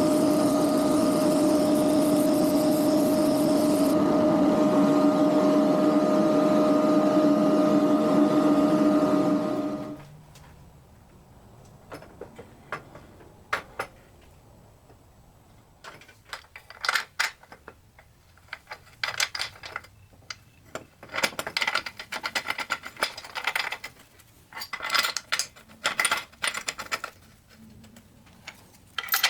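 A handheld electric power tool runs steadily at one pitch for about ten seconds, then stops. After it, scattered clicks and clatter of parts and tools being handled.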